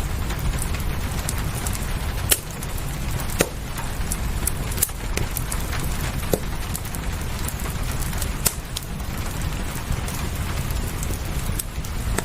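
Wood fire crackling, with a few sharp pops, the loudest about two seconds in, over a steady hiss of rain.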